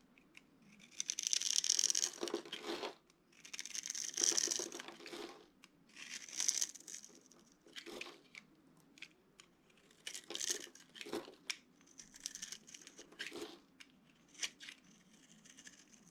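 Brittle dry soap crackling and crumbling as it is broken up by hand. There are three longer crackly bursts in the first seven seconds, then a run of shorter crunches and snaps.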